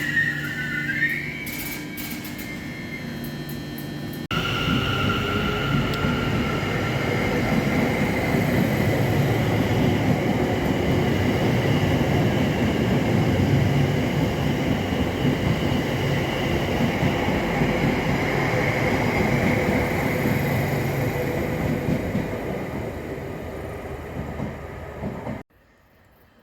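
Network Rail test train passing through a station: a long, loud, steady run of wheel and engine noise with held tones above it, starting abruptly a few seconds in and cutting off suddenly near the end.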